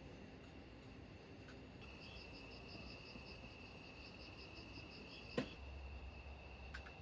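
Faint, steady chirping of insects such as crickets: a constant high trill with a faster pulsing chirp at about five pulses a second laid over it for a few seconds. A single sharp click about five seconds in.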